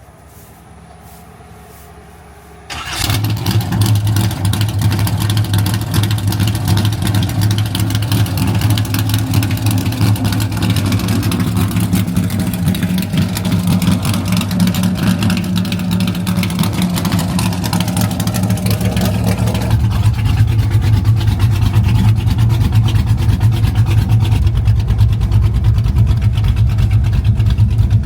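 Car engine starting with a sudden catch a few seconds in, then running steadily with a deep low hum; about twenty seconds in its note changes and the low rumble gets heavier.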